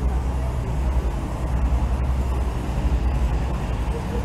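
Car engine idling, a steady low rumble with a slight pulse.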